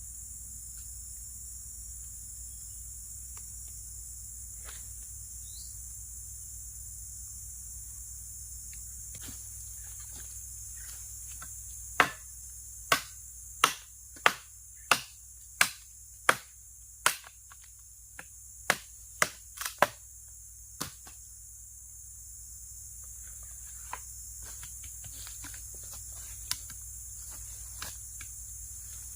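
Steady chorus of crickets or other insects, with a run of about a dozen sharp knocks, a little under one a second, starting about twelve seconds in and lasting roughly nine seconds, then a few fainter knocks.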